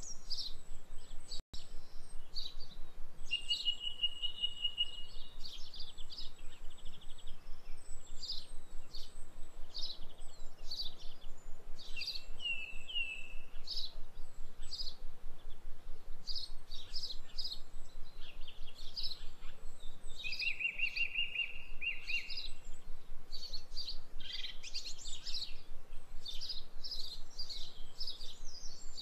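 Songbirds chirping and singing: a continuous run of short, high chirps, with a longer trill about three seconds in and another about twenty seconds in.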